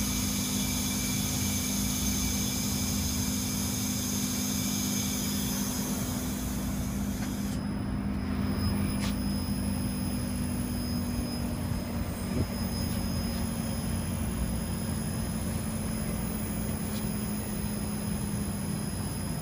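LG Multi V mini outdoor air-conditioning unit running: a steady low hum of the compressor with the rush of the fan.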